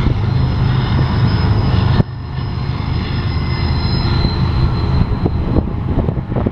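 Intermodal freight train's cars rolling past: a steady low rumble of steel wheels on rail, with thin high wheel squeals over it. A scatter of sharp knocks and rattles comes in the last second or two.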